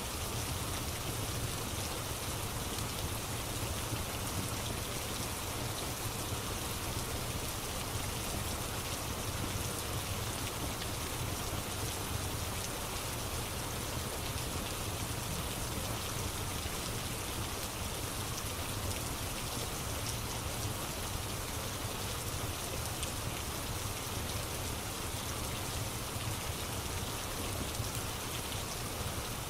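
Steady rain falling, an even unbroken patter with a low rumble beneath it.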